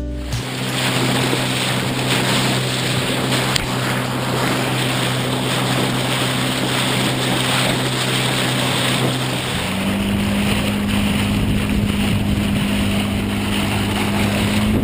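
Small boat's outboard motor running under way, with wind and water noise. About ten seconds in, the engine note steps up to a higher pitch and holds there.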